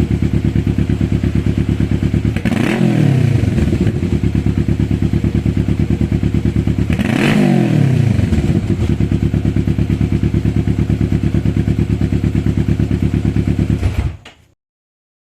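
A Kawasaki Vulcan S 650's parallel-twin engine idles steadily, with two short throttle blips about three and seven seconds in. The sound cuts off suddenly near the end.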